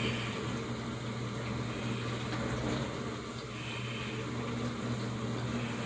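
Steady low hum of a running kitchen appliance, with faint soft handling noises over it.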